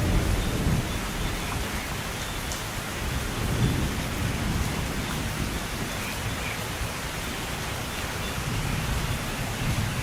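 Steady heavy rain with low rolling thunder rumbling underneath, the rumble strongest right at the start and again about four seconds in.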